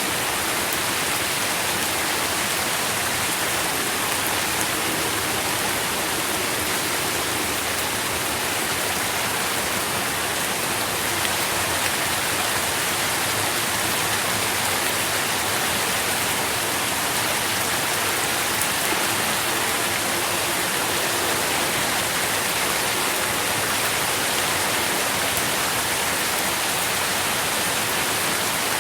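Steady rain falling, a dense even hiss with a fine patter of drops.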